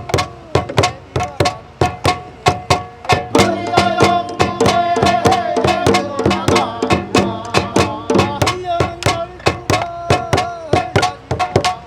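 Korean folk music: drums beating a fast, even rhythm of about five strokes a second, with a held, wavering melodic line over them.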